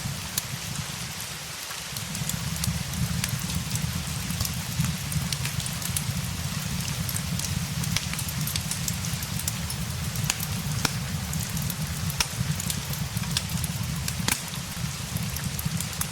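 Steady rain blended with a crackling fireplace: an even hiss of rain over a low rumble, with frequent small crackles and the odd sharper pop from the fire.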